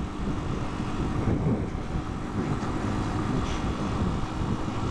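Italika 250 motorcycle running steadily on the road, its engine hum mixed with wind noise on the bike-mounted camera microphone.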